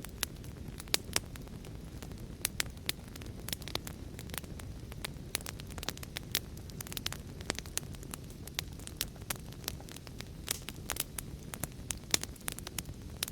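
Wood fire crackling: a steady low rumble of burning with frequent sharp, irregular pops and snaps.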